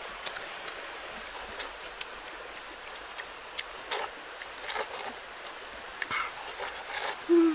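A person eating by hand, with close mouth sounds: scattered short crunches, smacks and clicks of chewing. A brief 'mm' hum comes near the end.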